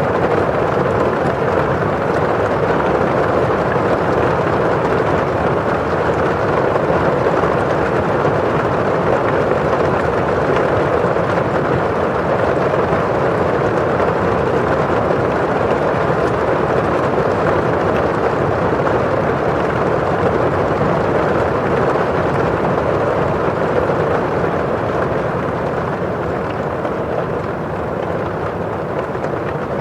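Steady rain on a window pane: a constant wash of drops on the glass over the rushing of rain outside, easing slightly near the end.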